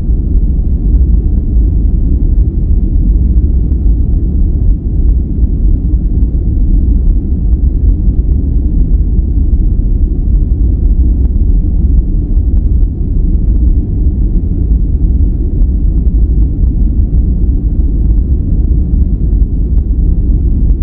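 Steady, loud, deep rumbling noise of the relaxation kind, with no high hiss, closer to brown noise than to true white noise. It runs on evenly, without any change or separate sounds.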